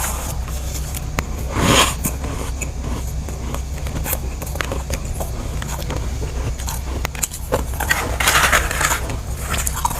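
Chunks of freezer frost being bitten and chewed: a crunchy bite about two seconds in, a longer run of crunching near the end, and small crackles and clicks in between. A steady low hum runs underneath.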